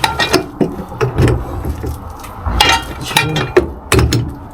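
Metal hand tools clicking and clanking in a series of short, irregular knocks, as parts are worked on by hand during a semi-truck repair.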